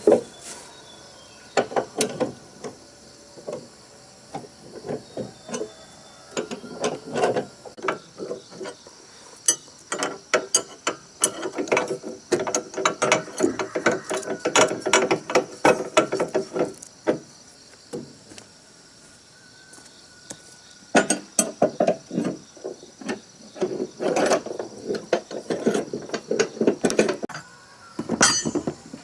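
Bursts of rapid, rattling clicks and knocks, coming in clusters with short pauses between, over a faint steady high-pitched hum.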